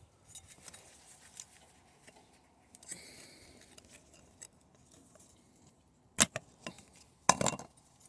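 Sheet-steel patch panel being trimmed and handled: light clicks and a brief scraping rasp of thin metal, then two sharp metal knocks near the end, the second followed by a short rattle.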